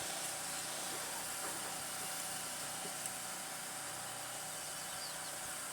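Steady hiss of outdoor background noise with a faint engine-like hum from construction work, and a few faint bird chirps near the end.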